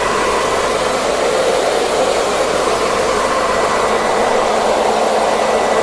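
Hairdryer running steadily: an even rush of blown air with a faint motor hum.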